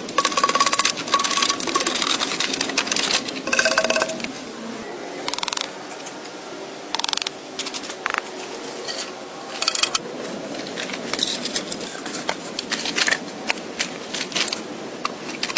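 Irregular clicks, taps and scrapes, as of hand tools working material, louder in the first four seconds.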